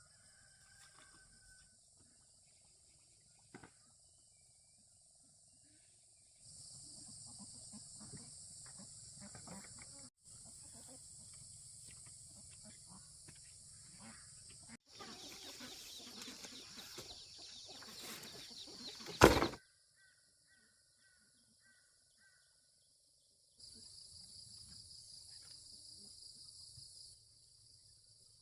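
Farmyard ambience with insects droning steadily and chickens clucking and flapping. A few seconds of rustling build to one sharp, loud knock about two-thirds of the way through.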